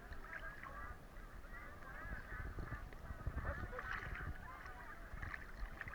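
Many distant voices chattering over one another, with a low rumble of water and wind on the microphone.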